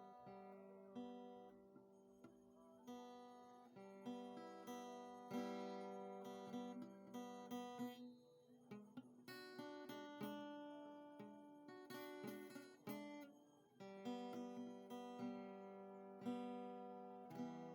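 Soft background music on acoustic guitar: plucked and strummed chords, each ringing out and fading before the next.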